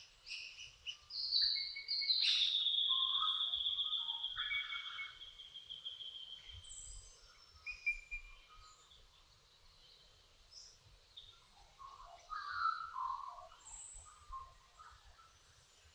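Dawn chorus of several birds singing and chirping. A long trill that slowly falls in pitch, starting about two seconds in and lasting some four seconds, is the loudest song, with scattered shorter calls and whistles around it.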